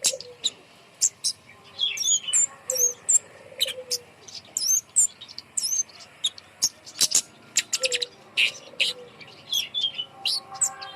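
Flowerpecker calling: a rapid, irregular run of sharp, high ticking chirps and short whistled up-and-down notes, used to coax other birds into song. A lower warbled call recurs about every two and a half seconds underneath.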